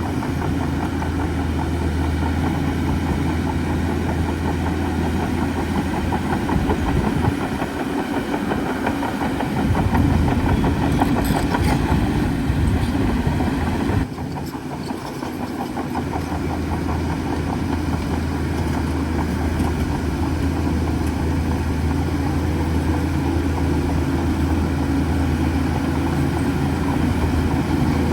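Heavy diesel engine of a bulldozer running steadily at work, its deep hum easing off briefly about a quarter of the way in and changing suddenly about halfway through.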